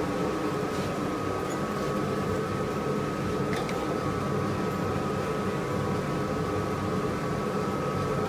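Steady machine and fan hum holding several even tones, with a few faint clicks.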